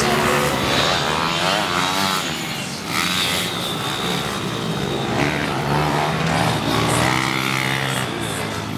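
Several pit bike engines revving up and down as the bikes race on the track, their pitches rising and falling and overlapping.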